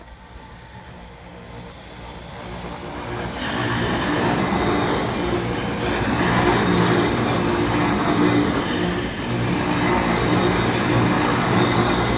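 Wengernalpbahn electric rack-railway railcar approaching and running past close by. Its sound grows louder over the first few seconds, then holds steady as a running noise with a low, steady hum.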